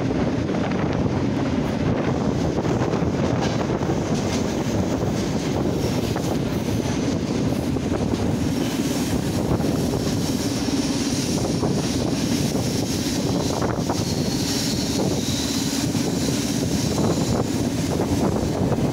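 Steady rumble of a moving train heard from on board, with wind blowing across the microphone.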